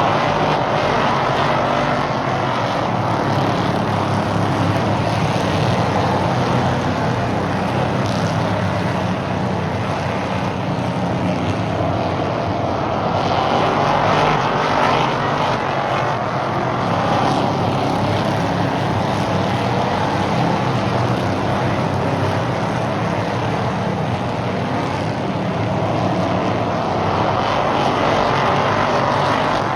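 Stock race cars' engines running at speed around a short oval track, the field's noise swelling and fading every several seconds as the cars pass and go away.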